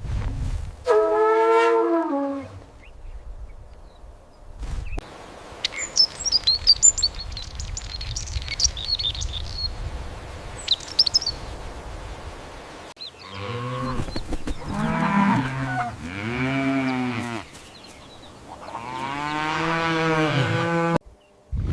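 Birds chirping in short high notes, then a cow mooing about four times, the last moo the longest. A short pitched animal call comes about a second in.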